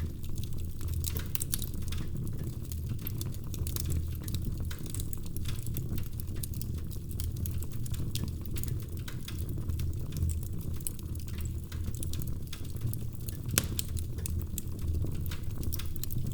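Wood fire burning in a fireplace: a steady low rumble of flames with irregular crackles and small pops, and one sharper pop near the end.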